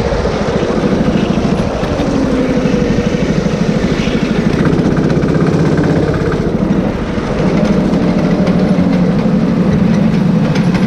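Rental go-kart's small petrol engine running steadily, easing off briefly about seven seconds in and then picking up again.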